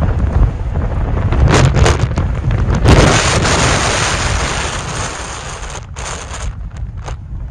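Strong wind gusting hard against the microphone: a loud rushing noise with deep buffeting rumble, surging a few times in the first half and easing off toward the end.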